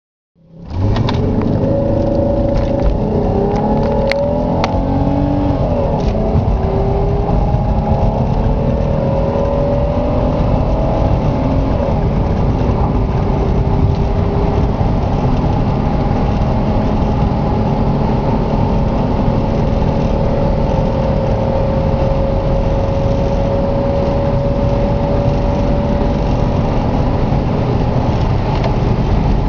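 1995 Pontiac Grand Am's 3.1-litre V6 under hard acceleration from a standstill. In the first few seconds the engine note rises and drops back several times as it goes up through the gears. Then comes one long, slow climb in pitch over a steady low rumble as the car builds speed toward 112 mph.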